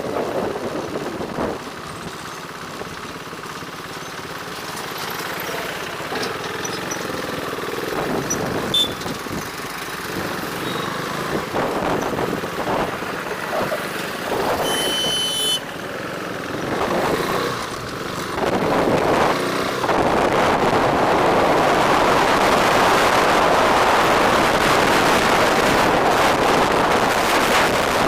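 Road noise heard from a moving motorbike: wind rushing over the microphone and traffic around it, getting louder and steadier for the last third. A short high-pitched beep sounds about halfway through.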